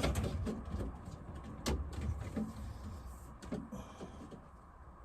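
Scattered clicks, knocks and rustles of plastic water pipes and fittings being handled and trimmed, with one sharp click about a second and a half in.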